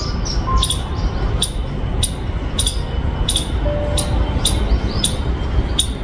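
A small bird gives sharp, high chirps about seven times, roughly one every half second to a second, over a steady low rumble, with a few brief whistled notes in between.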